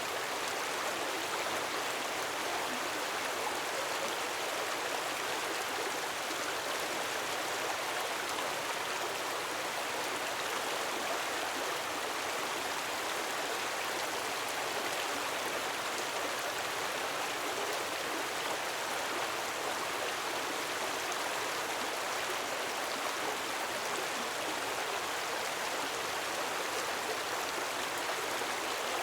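Gentle waterfall: a steady, unbroken splash of falling water.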